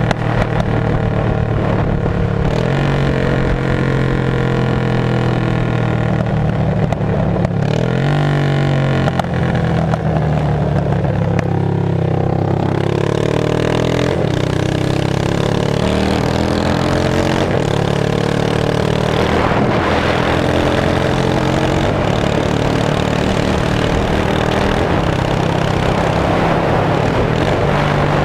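2002 Yamaha V-Star 650's air-cooled V-twin running through straight pipes, loud and steady, with its pitch rising and falling a few times as the throttle changes.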